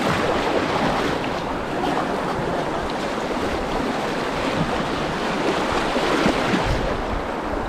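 River rapids rushing: a steady wash of white water.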